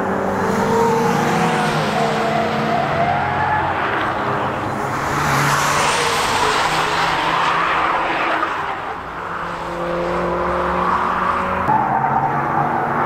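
A car's engine and exhaust as it drives a circuit corner under hard driving, its pitch sliding with the throttle. It swells to its loudest about halfway through with a rush of tyre and exhaust noise, then fades as another car's engine comes in near the end.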